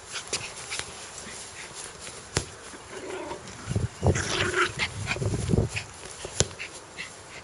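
Dog growling, in a run of louder, rough growls from about four to six seconds in, with a few sharp clicks around it.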